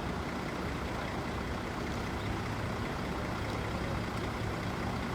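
Heavy machinery's engine running steadily with a low, even hum.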